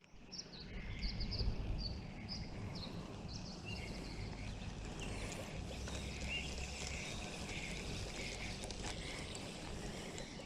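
Outdoor riverside ambience: small birds chirping repeatedly over a low, steady background rumble.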